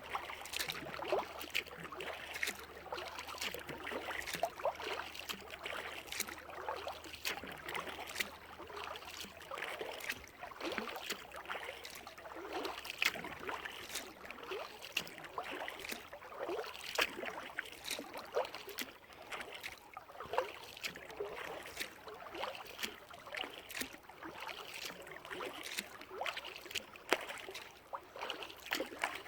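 Kayak paddling: the paddle blades dip and pull through the water, with steady splashing and dripping from the blades.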